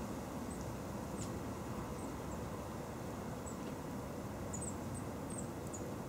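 Small birds giving short, high chirps every second or so, over a steady low outdoor rumble and hiss.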